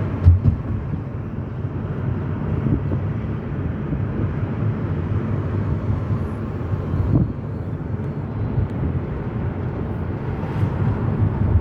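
Steady low rumble of a car driving, road and engine noise, with two brief knocks: one at the very start and one about seven seconds in.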